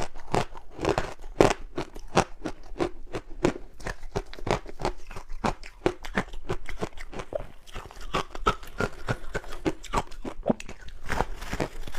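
Crunchy ice being bitten and chewed close to the microphone: a rapid, irregular run of sharp crunches, several a second.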